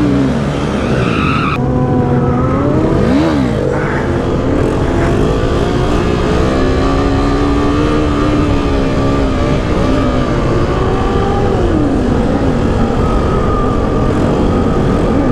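KTM RC 390's single-cylinder engine running hard as the bike is ridden, its pitch rising and falling again and again as the throttle is opened and closed, with a quick rev up and back down about three seconds in.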